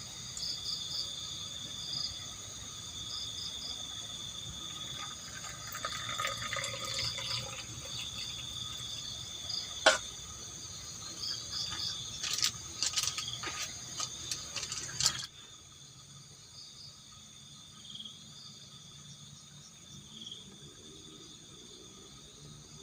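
Crickets and other night insects trilling steadily at several high pitches, with light splashing of water and sharp clicks and knocks of handling over the first fifteen seconds, the loudest click about ten seconds in. About fifteen seconds in, the sound drops suddenly and only the quieter insect chorus goes on.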